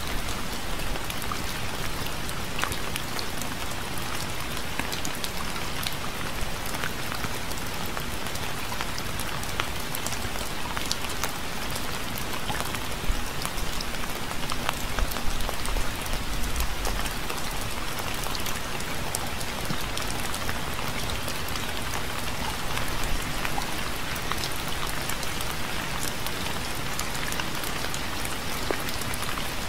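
Steady rain falling, a constant hiss full of separate drops ticking.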